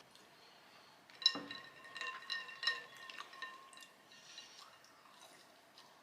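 Ice cubes clinking against a drinking glass, a run of ringing clinks over about two seconds, then a few faint taps.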